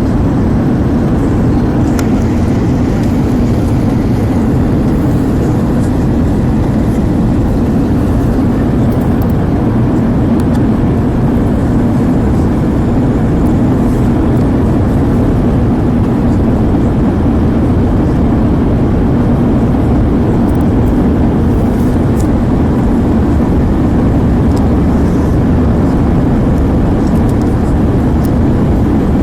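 Steady, loud cabin noise inside an Airbus A320: a low, even rumble of jet engines and airflow that holds level throughout.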